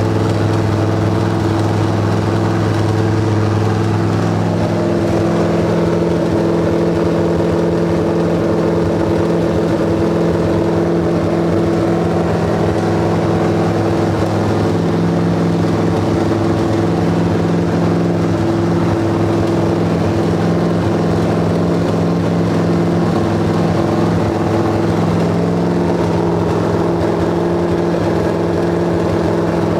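Race car's newly installed engine running steadily at a fast idle, with no change in speed.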